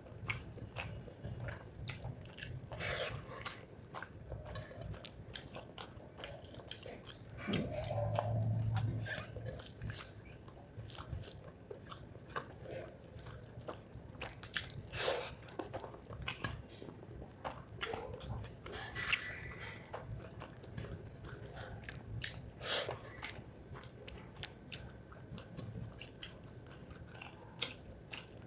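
A person eating rice with spicy chicken liver close to the microphone: irregular wet chewing, smacking and clicking mouth sounds, with a short low hum about eight seconds in.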